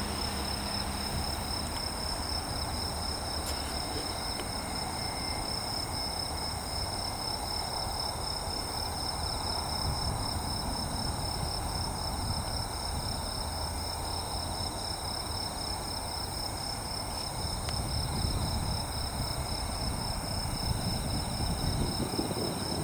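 Insects chirping in a steady, high, pulsing drone over a low background rumble that grows louder near the end.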